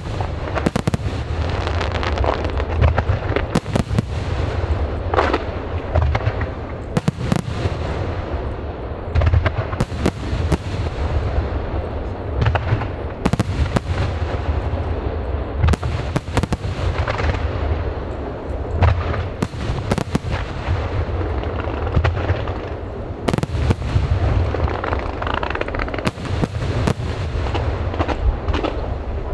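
Aerial fireworks display: many sharp bangs of bursting shells in rapid succession, mixed with crackling, over a continuous low rumble.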